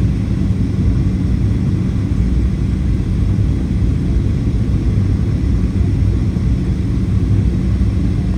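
Steady cabin rumble inside a Boeing 737-800 in flight, from its CFM56-7B engines and airflow, with a steady low hum running under it.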